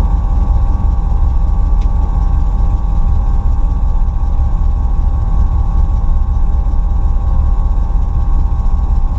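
Carbureted 5.8 L (351) Ford small-block V8 with a Trick Flow stage 1 cam, idling at a standstill, heard from inside the cabin: a loud, steady low rumble with a steady whine above it.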